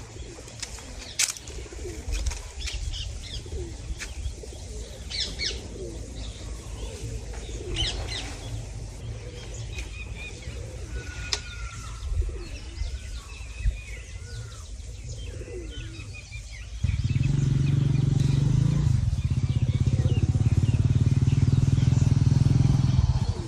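Small birds chirping and calling over a low steady rumble. About two-thirds of the way through, a loud engine starts up abruptly, runs steadily and drowns out the birds.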